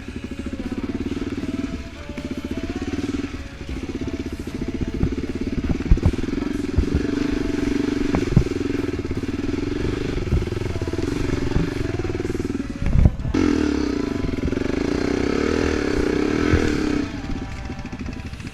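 Off-road vehicle engine running and revving under load, its pitch rising and falling, with scattered knocks and thumps, the loudest about thirteen seconds in.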